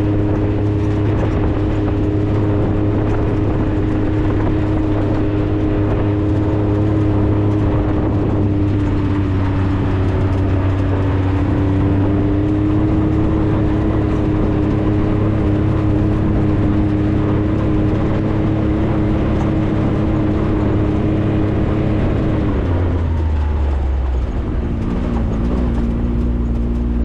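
A 4x4 vehicle's engine running steadily with a constant droning hum while driving. About 22 seconds in the revs drop and the pitch falls as the vehicle slows down.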